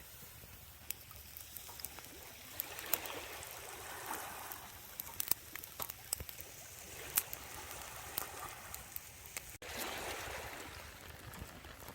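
Water sloshing and trickling, swelling every few seconds, with scattered small clicks.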